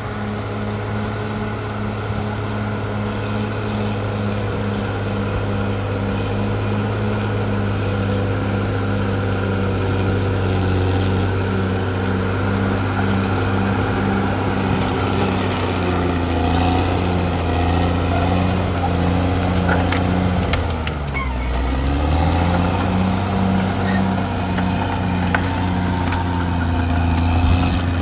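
CAT D6R XL bulldozer's diesel engine running steadily while the machine works. About three quarters of the way through, the engine note drops sharply for about a second, then climbs back.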